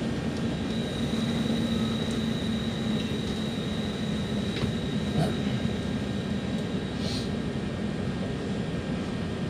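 Passenger train running, heard from inside the carriage as a steady rumble. A thin high whine sits over it from about a second in until a little past the middle.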